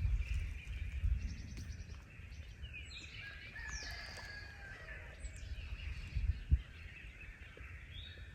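Songbirds chirping and singing, several short calls and whistled sweeps, over a low rumble, with a single knock about six and a half seconds in.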